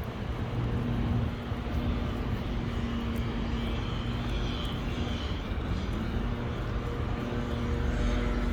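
Vehicle engine running steadily with road noise, the engine note dropping and then climbing back up about six seconds in.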